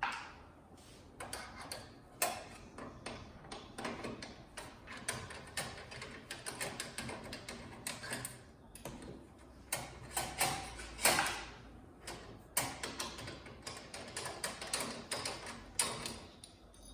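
Quick irregular clicks, taps and scrapes of a hand tool and small metal parts as the TV's thick metal wall-mount brackets and their screws are worked loose.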